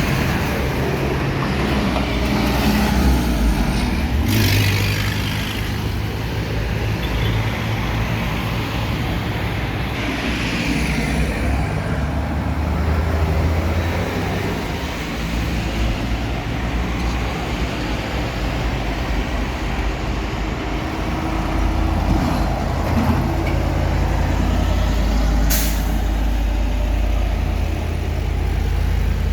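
Heavy diesel trucks running and passing on the road, their engines a steady low drone. Two short, sharp hisses typical of truck air brakes come about four seconds in and again near the end.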